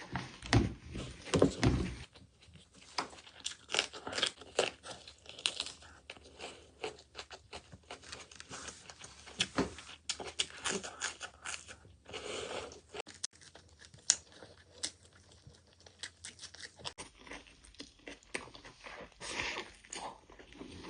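A person eating a spicy chicken leg piece: irregular crunching, biting and chewing sounds, with a few louder low thumps in the first couple of seconds.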